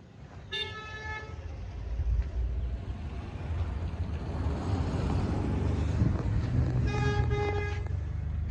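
A vehicle horn sounds two short blasts, one about half a second in and one near the end, each lasting just under a second. Under them an engine runs steadily and grows louder through the middle.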